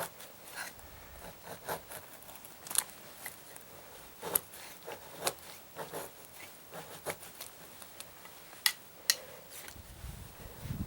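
Dry sticks being handled and broken for firewood: irregular sharp snaps and short scrapes, about a dozen spread unevenly, the loudest a pair of cracks near the end.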